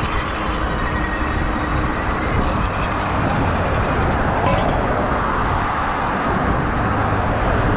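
Steady rush of wind over the microphone and fat tires on the road while riding an electric bike with a Bafang BBS-HD mid-drive motor. A faint motor whine runs under the noise.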